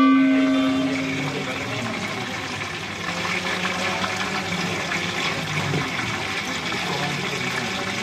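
A metallic ring fading away over the first second or two, over a steady rushing noise with a low hum.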